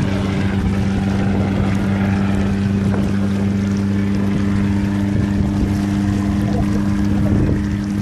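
Vehicle engine running steadily with a constant low hum, under a loud rough rushing noise of the wheels working through flood water and soft ground.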